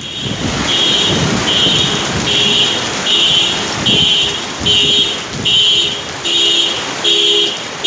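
Car alarm sounding in a steady run of repeated electronic beeps, a bit more than one a second, over rushing storm wind. It was set off by roof tiles falling onto the parked car.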